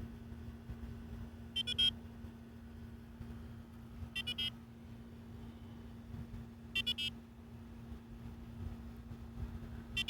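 Onvoy ghost box giving short electronic double beeps about every two and a half seconds, four times, over a steady low hum.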